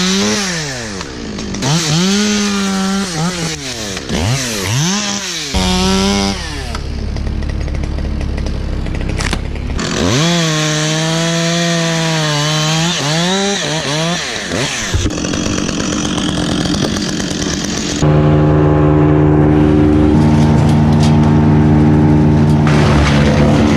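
Chainsaw revving up and down repeatedly, with stretches of steady running while it cuts into the ash wood. About 18 seconds in, a louder, steady engine note takes over.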